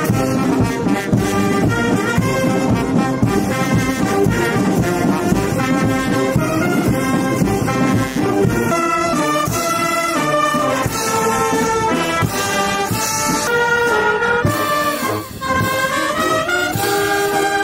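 A brass band with trumpets and trombones playing a melody of held notes. It briefly drops in loudness near the end.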